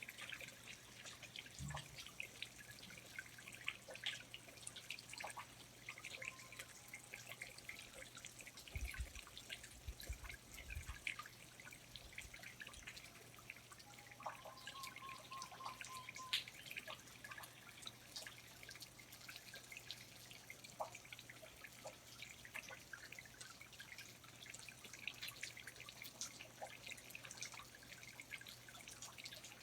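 Faint, irregular dripping of water in a rainforest, countless scattered drips falling on leaves. A short run of repeated high notes sounds about halfway through, and a few low thumps come about 9 to 11 seconds in.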